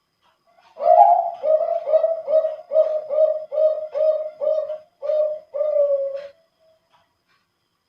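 A male Bangkok-strain zebra dove (perkutut) of contest stock sings one song phrase. It opens on a higher note, runs through about ten short coos at roughly two a second, and ends on a longer drawn-out note.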